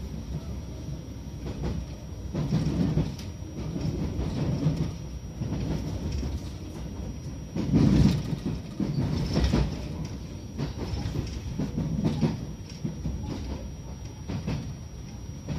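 Train wheels rumbling and clacking over rail joints and points, heard from inside the carriage, with a louder jolt about halfway through.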